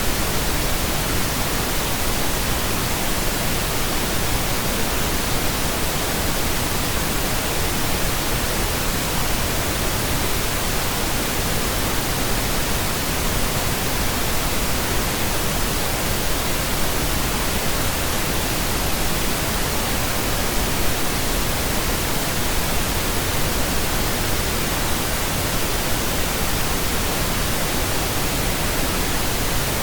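Steady pink noise: an even, unchanging hiss across the whole range, with no tones or breaks.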